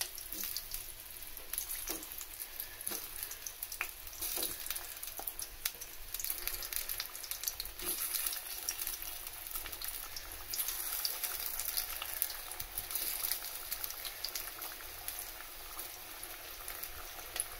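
Spiced raw banana slices frying in shallow oil in a small kadai: a steady sizzling hiss with scattered crackles and pops.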